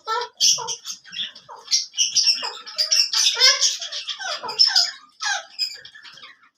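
Alexandrine parakeet giving a rapid string of short, harsh squawks and chattering calls.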